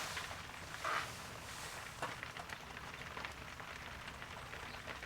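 Steady rain falling, with many small drop ticks, and a brief louder rustle about a second in.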